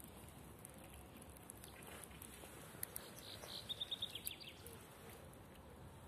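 Quiet outdoor ambience in which a small bird gives a quick run of high chirps, about eight notes in a second, midway through; a faint click comes just before.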